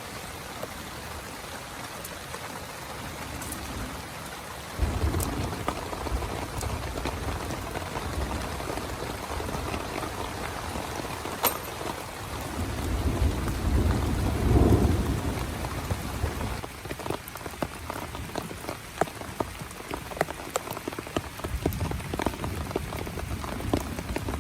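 Heavy rain falling steadily, with a low rumble of thunder that swells and fades a little past the middle. In the last third, single large drops hit sharply and separately through the rain.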